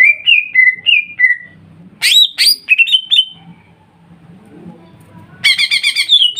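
Cucak ijo (green leafbird) singing loud whistled notes: a run of short notes falling in pitch, a few sweeping notes about two seconds in, then a fast trill of about eight repeated notes a second near the end.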